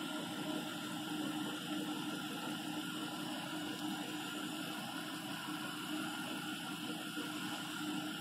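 Jeep Grand Cherokee V6 engine idling, steady and quiet, with no valvetrain ticking; its camshafts, rocker arms and lifters are freshly replaced.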